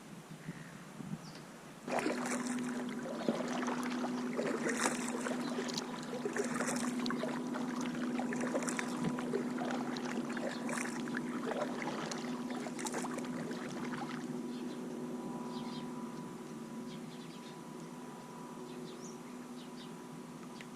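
Kayak paddle strokes: water splashing and dripping with knocks of the paddle, heavy from about two seconds in and easing off in the last few seconds. A steady hum starts suddenly at the same point and runs under them.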